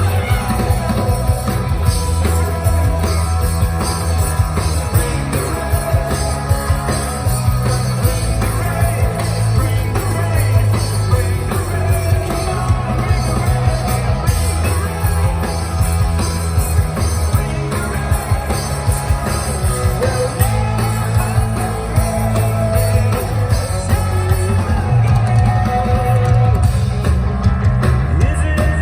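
Live rock song: a male singer over a band with drums, a heavy bass line and guitar.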